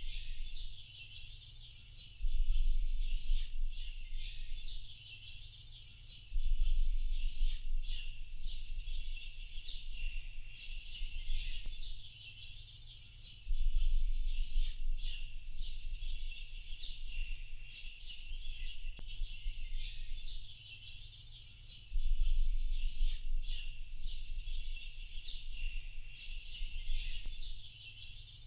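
Many small birds chirping and calling together in a dense, continuous chorus of short high notes. A deep low rumble comes in suddenly four times, each lasting several seconds, and is the loudest part when it does.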